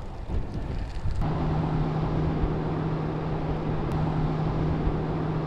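Wind rumbling on the microphone, then after about a second an abrupt change to a steady low engine hum over a rushing noise.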